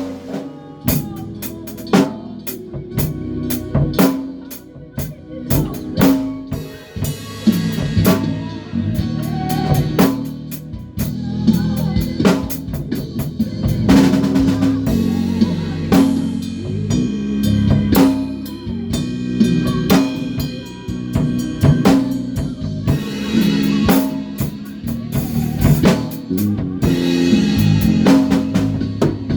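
Drum kit and bass playing together in a band rehearsal, with regular snare and kick hits over a moving low bass line.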